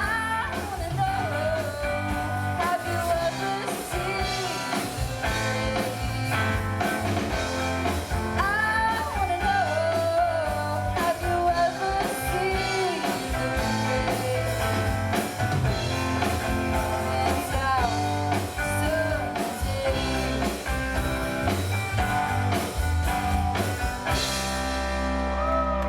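Live rock band playing with a lead singer over guitar, bass and drums. About 24 seconds in, the singing stops and the band holds one long final chord.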